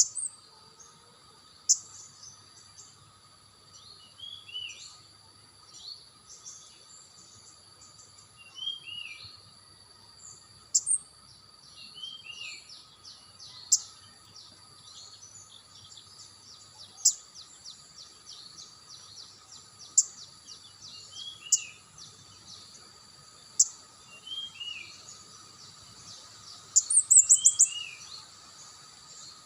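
Small songbird calls: a short double down-slurred whistle repeated every three to four seconds, sharp high chip notes between them, and a quick run of high notes near the end, the loudest part. A steady faint high-pitched hum sits underneath.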